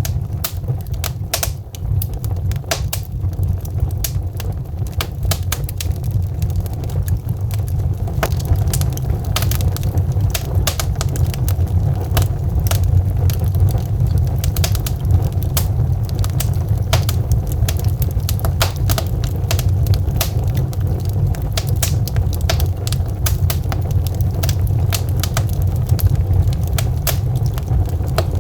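Burning logs in a fireplace crackling: many irregular sharp pops and snaps over a steady low rumble, the pops growing busier after about eight seconds.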